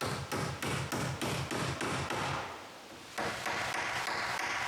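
Hammer driving nails into wooden planks: rapid, evenly spaced strikes about four a second that stop about two and a half seconds in. A steady hiss follows near the end.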